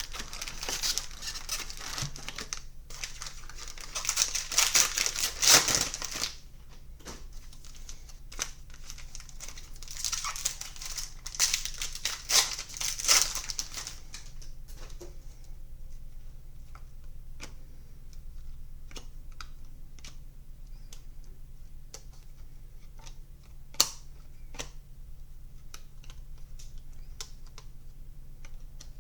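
Trading card pack wrapper crinkling and tearing open in two noisy stretches, followed by many light clicks and taps of cards being handled and shuffled.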